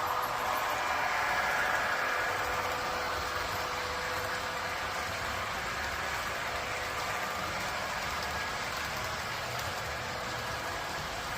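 A train running along its track: a steady mechanical rumble and hiss with a faint steady hum, swelling slightly about two seconds in.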